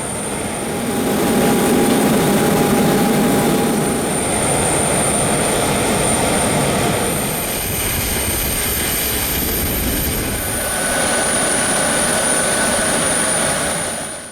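Boeing 737 MAX 8 jet engines (CFM LEAP-1B) running steadily at low power as the airliner taxis after landing, a continuous rush with a faint high whine.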